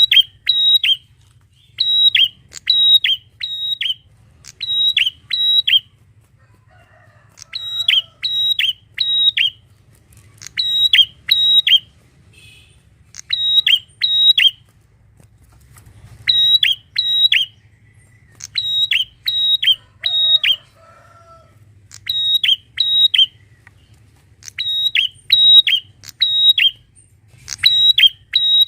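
A prenjak (prinia) calling loudly: sharp, high-pitched notes in quick clusters of two or three, repeated every second or so with brief pauses between runs.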